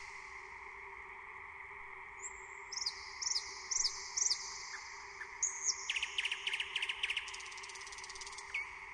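A songbird singing: a run of high whistled notes that each slide downward, starting about two seconds in, followed by a rapid trill around six to seven seconds in.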